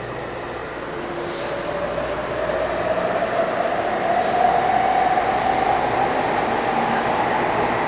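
Taipei Metro C301 train with refitted propulsion gathering speed: its traction motors whine in a steadily rising pitch over the running rumble, with a few brief high-pitched wheel squeals.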